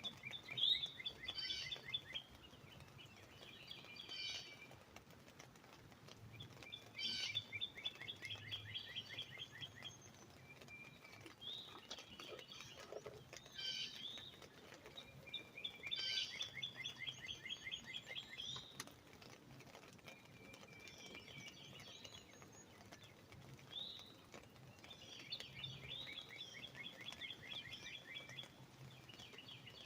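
Birds singing: a rapid trilled phrase of quick repeated notes comes back about every eight or nine seconds, with shorter chirps and calls in between.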